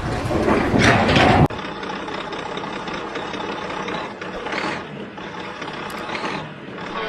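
Engine noise, loud for the first second and a half, then cut to a lower, steadier run with a few brief swells.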